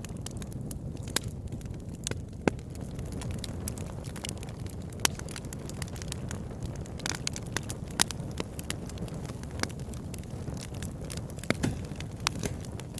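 Campfire burning with a steady low rumble and irregular sharp crackles and pops from the burning wood, the loudest pops about 2.5, 5 and 8 seconds in.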